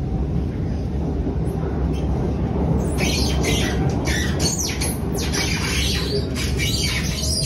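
Alstom Movia R151 metro train running, heard from inside the car: a steady low rumble, joined about three seconds in by a string of short, high-pitched squeaks and squeals, some sliding down in pitch.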